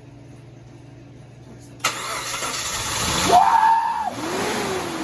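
The freshly rebuilt Mitsubishi Montero Sport engine fires up suddenly about two seconds in, on its first start after the rebuild. It revs up, drops back, and is then revved up and down in slow waves.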